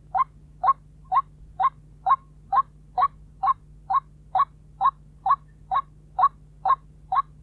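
White-breasted waterhen calling a single short 'kwok' note over and over, about two a second at an even pace, over a faint steady low hum.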